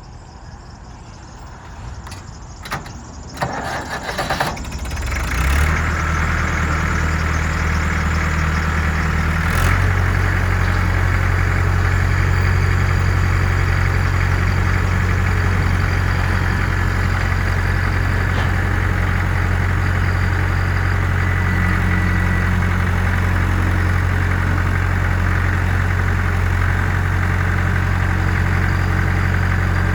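White 2-45 tractor's diesel engine being started: a few seconds of uneven cranking sounds, then it catches about five seconds in and runs steadily. Its note shifts and settles near ten seconds in, then idles evenly.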